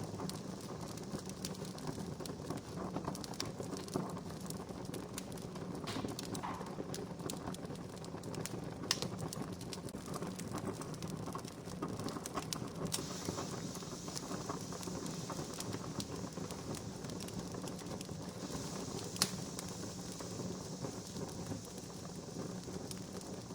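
Wood campfire crackling: many small clicks and a few sharper pops over a steady low rush of flame, with a higher hiss coming in for a few seconds past the middle.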